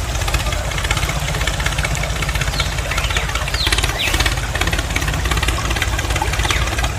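Small engine running steadily, with a fast, even firing rhythm.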